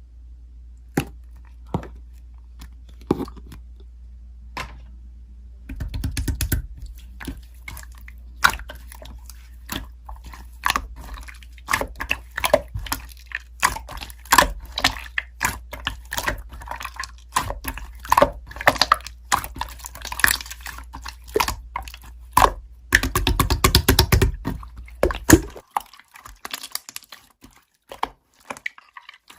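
Slime being squeezed and pressed by hand: wet clicks, pops and squishes, sparse at first, then a dense run from about six seconds in that thins out near the end. A low background hum cuts off about 25 seconds in.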